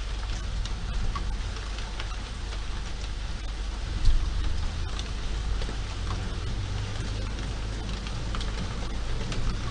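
Steady rain on a city street, an even hiss with scattered drips ticking, over a low steady rumble of city traffic. A single louder knock about four seconds in.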